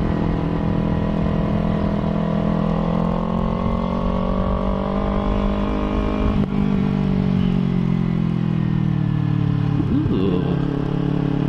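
Motorcycle engine under way, its pitch rising slowly for about six seconds, breaking briefly, then falling as the bike slows and levelling off near the end.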